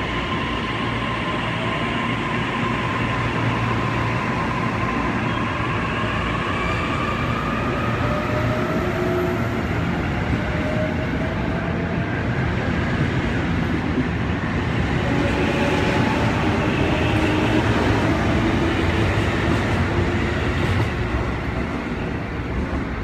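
E531-series electric train pulling out and gathering speed, a steady rumble of wheels on rail under several rising electric motor whines.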